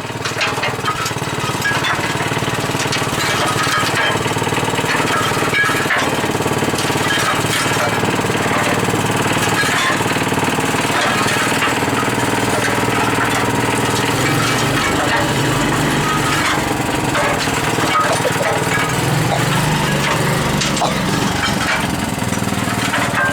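Small gasoline engine on a concrete mixer running steadily, with a rattly, lawn-mower-like sound, growing louder in the first second.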